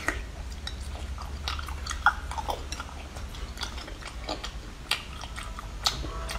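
Close-up mouth sounds of a person biting and chewing sea snail meat: scattered wet smacks and clicks, a few louder than the rest, over a low steady hum.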